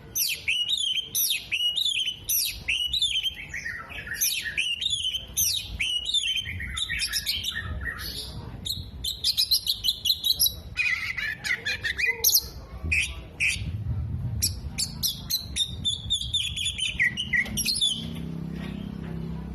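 Oriental magpie-robin singing a long, fast, varied song of rapid chirps, trills and downward-sliding whistles, its song strung with mimicked calls of other birds.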